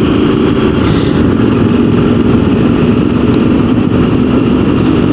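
Yamaha Super Ténéré motorcycle running at road speed, recorded on the moving bike: a loud, steady engine drone mixed with wind noise, with a brief hiss about a second in.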